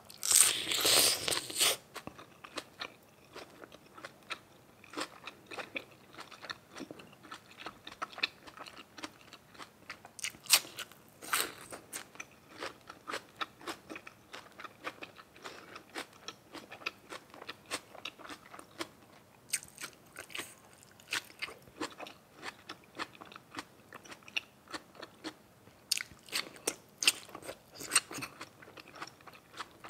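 A person chewing and biting food close to the microphone, in a steady run of small crunches and clicks, with a loud crunchy bite in the first two seconds and more louder crunches later.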